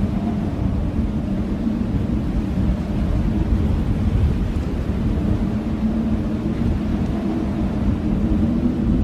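Blizzard wind blowing steadily with a deep rumble and a low howling tone that swells and fades.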